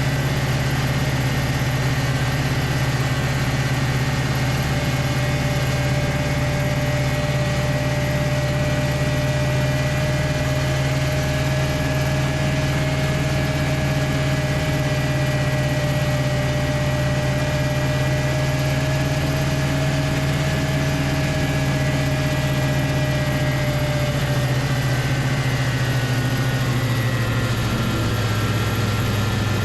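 Homemade snowmobile's Loncin engine running steadily, its pitch easing down over the last few seconds.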